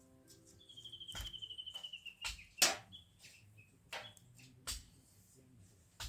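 Burning wood in a campfire crackling, with sharp irregular pops; the loudest comes a little over two and a half seconds in. About half a second in, a high, rapid trill sounds for about a second and a half, falling slightly in pitch.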